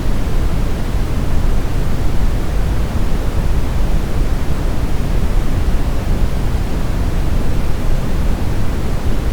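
Steady synthetic brown noise: a constant, deep rumbling hiss with its weight in the bass, falling away toward the treble, unchanging throughout.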